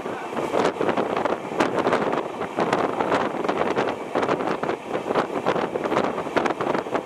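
Moving train heard from inside the coach: a steady running noise of wheels on rails, with frequent irregular clicks and rattles and wind buffeting the microphone.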